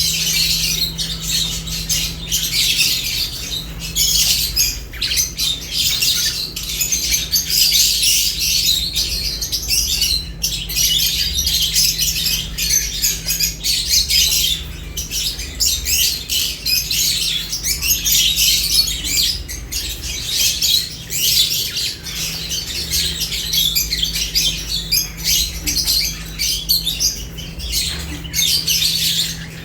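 Lovebirds chattering and squawking non-stop: a dense mass of overlapping high-pitched calls, over a steady low hum.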